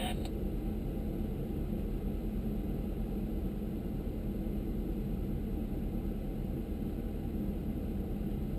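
Audi S7's twin-turbo 4.0-litre V8 idling steadily in park, heard as a low, even rumble inside the cabin.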